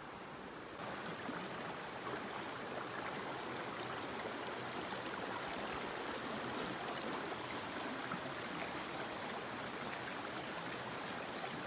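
Mountain stream flowing: a steady rush of water that steps up in level about a second in.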